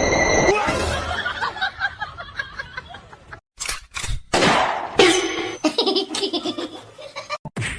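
Laughter in quick repeated pulses through the first few seconds, then the sound changes abruptly several times.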